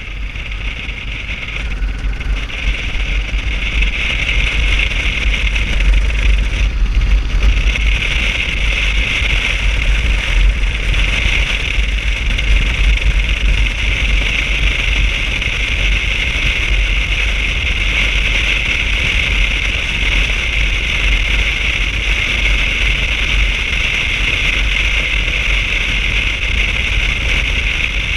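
Motorcycle on the move: steady engine and wind noise with a heavy low rumble, growing louder over the first few seconds and then holding steady.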